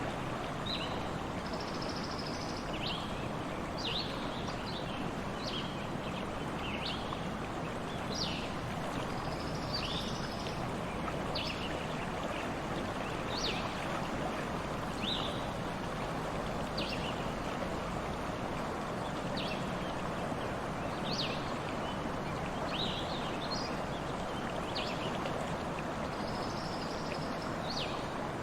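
Stream water flowing steadily, with short high bird chirps scattered throughout.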